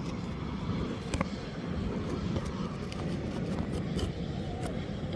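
Wind rumbling on the microphone, with a few small clicks about one, two and a half, and four seconds in.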